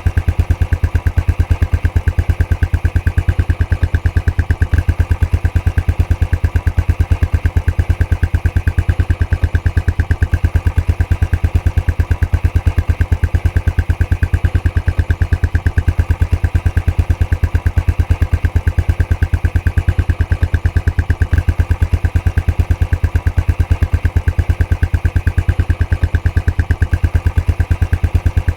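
Royal Enfield Classic 500's single-cylinder engine idling steadily through its stock exhaust, an even, regular beat with no change in speed.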